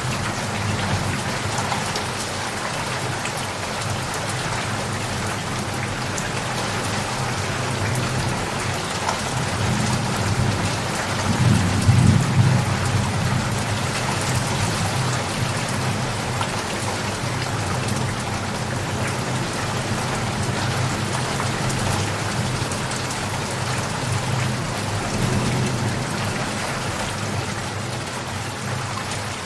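Steady rain falling, with a low rumble of thunder that swells and peaks about twelve seconds in.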